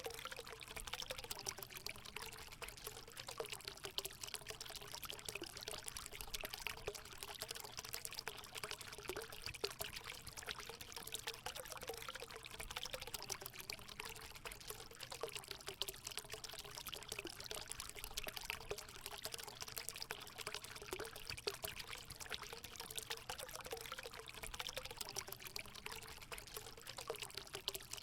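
Natural water running steadily into a hot spring pool, a constant pouring trickle with a wavering gurgle.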